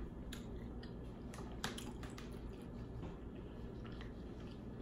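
Close mouth sounds of a person chewing hot lemon pepper chicken wings, with scattered small wet smacks and clicks over a faint steady room hum.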